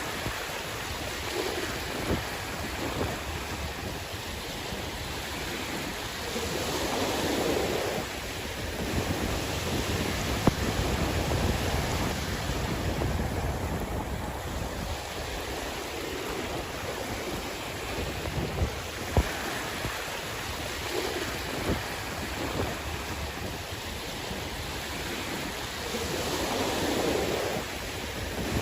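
Sea waves washing ashore, with two louder surges about twenty seconds apart, over wind rumbling on the microphone. A few brief sharp knocks stand out.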